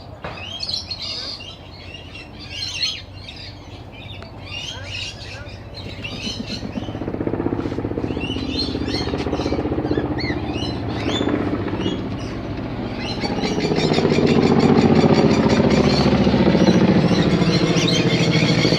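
Birds chirping, then a helicopter passing overhead. Its engine and rotor grow louder from about six seconds in and dominate the last few seconds with a steady, even rotor beat.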